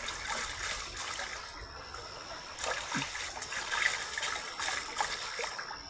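Water trickling and splashing unevenly, with a thin steady high-pitched whine running underneath.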